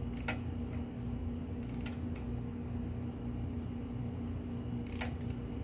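A few short sharp clicks and clinks from hand tools and parts being handled on the motorcycle, in small clusters, over a steady low hum.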